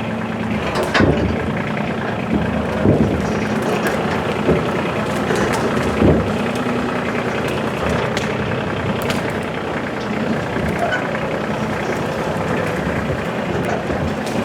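Tractor engine running steadily while it is driven over rough ground, with a few loud knocks and rattles along the way.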